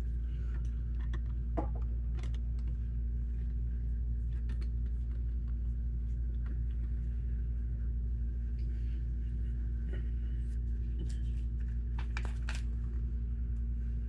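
A steady low hum, with scattered small clicks and taps of plastic Lego pieces being handled, a quick cluster of them near the end.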